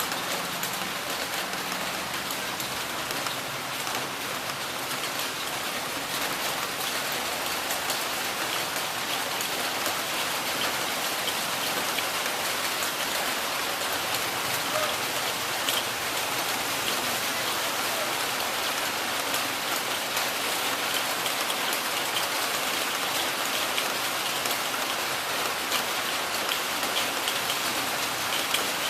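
Heavy rain falling steadily: a dense, even hiss peppered with countless small drop ticks, with no thunder.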